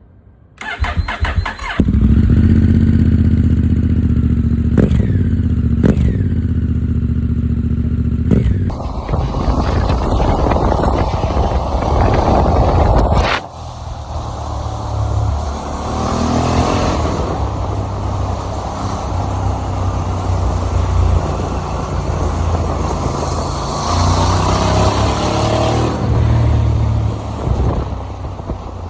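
Honda Africa Twin 1100's parallel-twin engine, through an Akrapovic exhaust, cranks briefly on the starter and catches about two seconds in. It idles with a few quick throttle blips, then pulls away and runs under load, with rising revs as it accelerates and wind noise mixed in.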